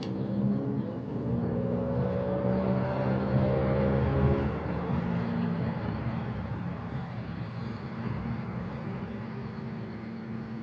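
An engine running with a steady hum, loudest for the first four seconds or so, then fading to a duller drone.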